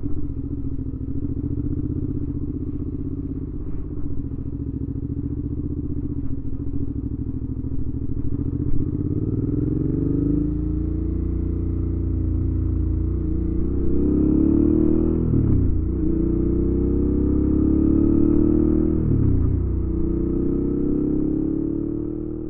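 Suzuki V-Strom 650's V-twin through a Delkevic aftermarket exhaust, under way. The engine holds a steady pitch for about ten seconds, then accelerates, its note rising and getting louder. Twice, about fifteen and nineteen seconds in, the pitch drops sharply and climbs again, as it does at an upshift.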